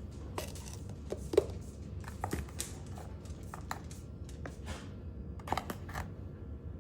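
A plastic scoop scraping and tapping in a tub of protein powder while two scoops are measured out: a string of irregular light clicks and scrapes, with a few sharper taps about a second and a half in and again near the end.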